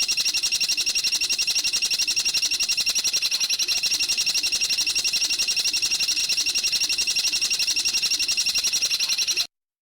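A small bird's fast, even, high-pitched chattering trill of about eleven notes a second, held without a break and cutting off suddenly near the end.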